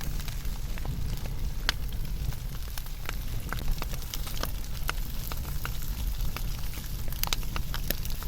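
Wood fire burning with a steady low rumble of flames and irregular crackles and sharp pops of burning wood, a few louder pops near the end.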